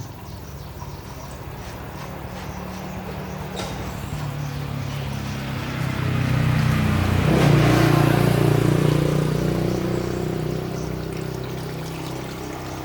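An engine running steadily with a rushing hiss over it, growing louder to a peak a little past the middle, then easing off.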